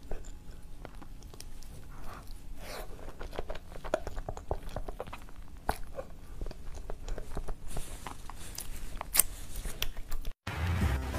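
Close-up mouth sounds of someone eating chocolate crêpe cake: chewing with soft wet smacks and clicks, and lips sucking on fingers. Just after ten seconds in, the sound cuts out and music starts.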